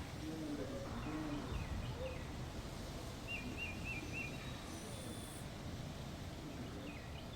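Small birds chirping, with a quick run of about four chirps a few seconds in, over a steady low background rumble.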